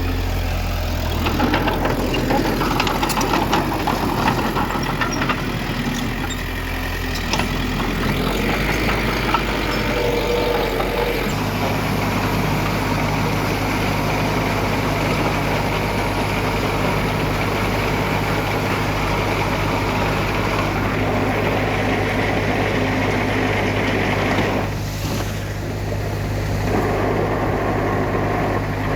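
Heavy construction-machine diesel engines running steadily, with metallic clatter in the first few seconds and a shift in the engine note about a third of the way through.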